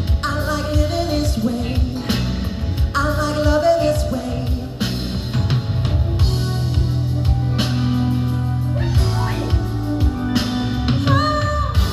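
Live band music, a mid-tempo pop ballad with a steady drum beat and guitar, with some wordless singing over it.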